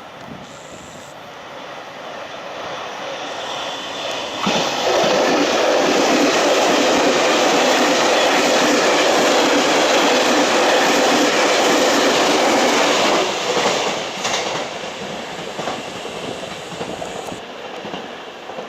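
Electric train running through the station at speed without stopping: its approach builds, it is suddenly loud as it reaches the microphone and stays loud for about nine seconds while the cars go by, then drops off sharply and fades.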